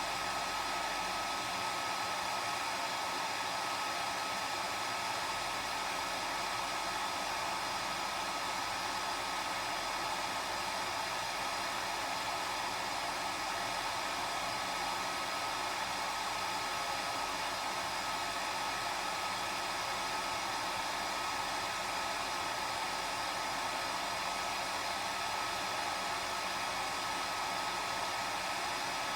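Hair dryer running steadily: an even rush of blown air with a constant high whine from the motor and fan.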